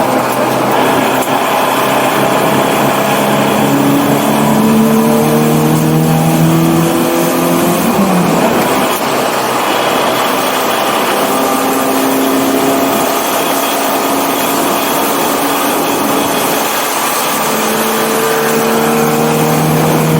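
1984 BMW 318i's four-cylinder engine running hard on track. It climbs in pitch under acceleration, drops sharply about eight seconds in, then pulls up in pitch again near the end.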